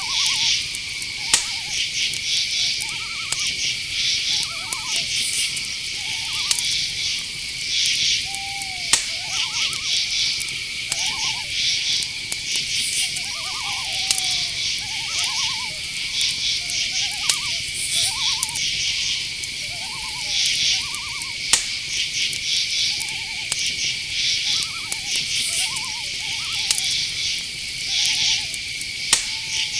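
Night-forest ambience: crickets and other insects chirping, with a steady high trill under pulsed chirps. Many short repeated animal calls sound lower over it, with an occasional sharp click.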